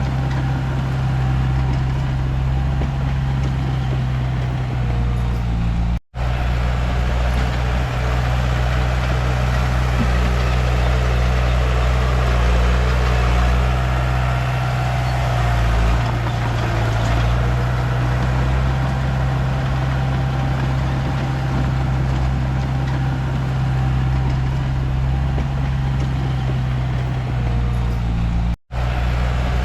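Komatsu D31P bulldozer's diesel engine running steadily as a deep drone while working. The sound cuts out for a split second twice, about six seconds in and near the end.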